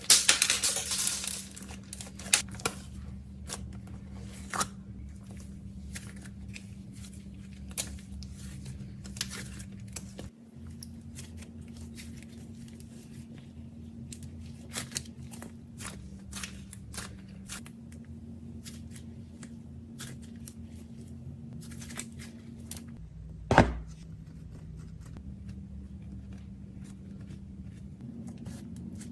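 Packaging being torn open and crinkled, loudest in the first second or two, then scattered small clicks and rustles of handling, with one sharp thump about two-thirds in.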